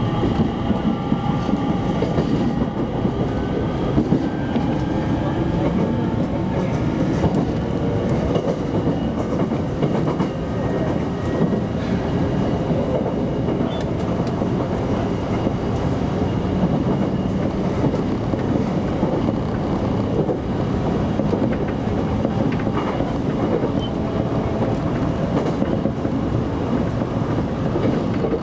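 Electric commuter train running along the line, heard from inside the driver's cab: a steady rumble of wheels on rails, with a faint whine climbing slowly in pitch during the first dozen seconds.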